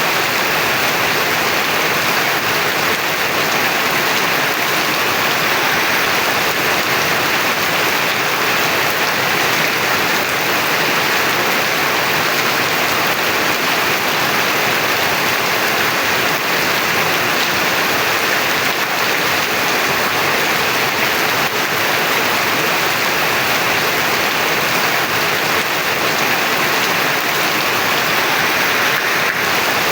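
Heavy rain falling steadily: a dense, even downpour hiss with no letup.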